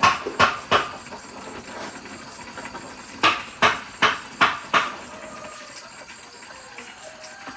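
A series of sharp knocks: three in quick succession, then after about two seconds a run of five, roughly three a second.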